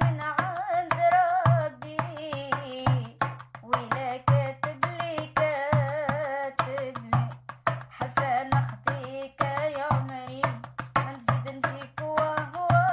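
A woman singing a Maghrebi raï-style song, with her voice wavering in ornaments over a driving hand-percussion rhythm with a low bass beat recurring about every second and a half.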